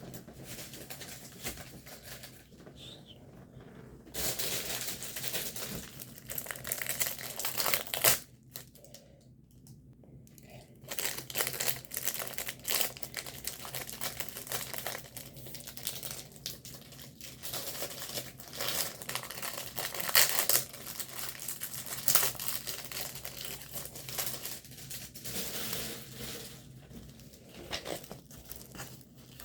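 Plastic packaging of a diamond painting kit crinkling and rustling as it is handled and opened, in irregular bouts with a quieter pause around eight to eleven seconds in.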